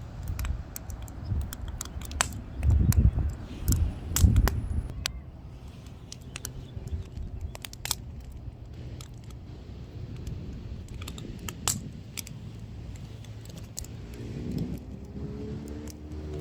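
Firewood burning, crackling with sharp, irregular pops and snaps. Low rumbles come and go, loudest about 3 and 4 seconds in, and a brief pitched sound is heard near the end.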